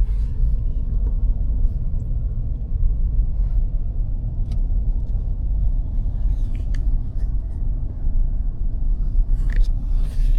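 A vehicle driving slowly, heard from inside the cab as a steady low rumble of engine and road, with a few faint clicks and rattles.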